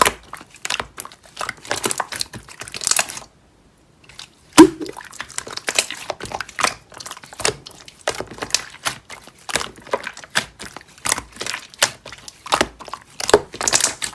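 Slime being squished and pressed by hand: a steady run of irregular crackly clicks and small pops. The sound drops out briefly about three and a half seconds in, and a single loud pop follows soon after.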